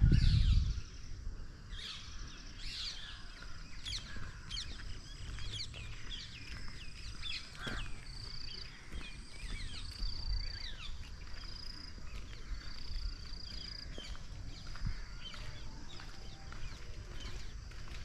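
Many small birds chirping and calling at once, in quick short notes and a repeated high whistle, over a steady low rumble.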